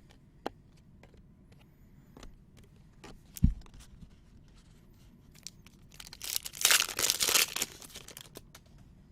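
A trading-card pack wrapper being torn open and crinkled, loudly for about a second and a half starting about six seconds in. Before it come light scattered clicks of card handling and a single low thump about three and a half seconds in.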